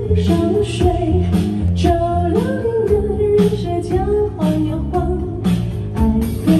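Live band playing a pop song, with guitar, bass and drums keeping a steady beat under a melody line.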